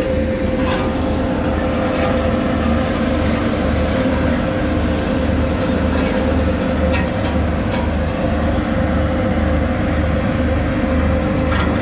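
Heavy road-construction machinery running steadily: an engine drone with a steady hum over a low rhythmic throb, and a few sharp metallic clicks.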